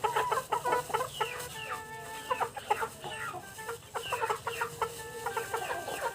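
A flock of native chickens clucking and calling over one another, many short calls overlapping, as they crowd in to be fed.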